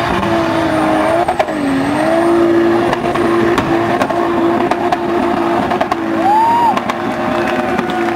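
A 4x4's engine held at high, steady revs under full load as it climbs a steep sand dune. The pitch sags briefly about two seconds in and then holds steady again.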